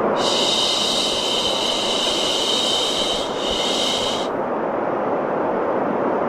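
Long human-style 'shhh' shushing over a steady low rushing noise bed, the kind used to soothe a baby to sleep. The shush starts right at the beginning, wavers briefly past the middle and stops a little after four seconds in, leaving the low noise running on its own.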